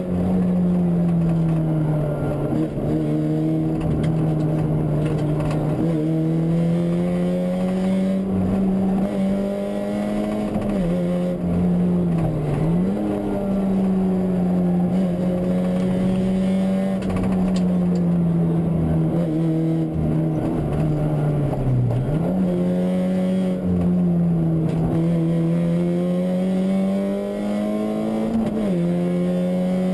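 Fiat Punto 1.8 rally car's four-cylinder engine heard from inside the cabin on a stage, pulling hard through the gears. The engine note climbs and falls over and over, with sharp dips at the gear changes and lifts.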